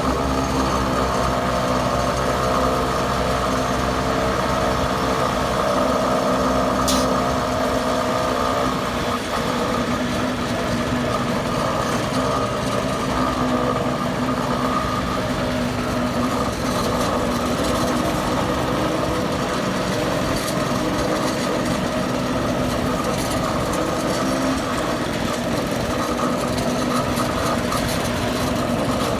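Heavy construction-vehicle engine running steadily, with a change in its tone about eight or nine seconds in and a single sharp click about seven seconds in.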